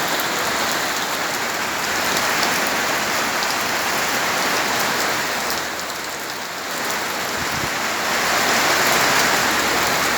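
Heavy rain pouring steadily, easing slightly for a moment about halfway through. A low steady hum joins in near the end.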